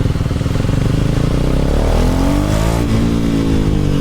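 KTM Duke 390 Gen 3 single-cylinder engine running through an Arrow aftermarket exhaust, pulling low at first, then revving up about halfway in and easing off again after about three seconds.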